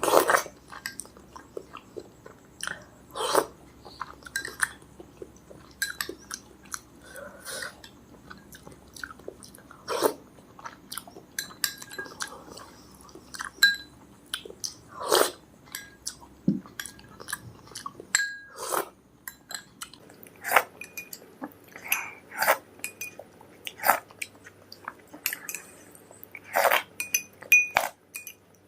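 Close-miked chewing and biting of food, with irregular sharp crunches and wet mouth clicks.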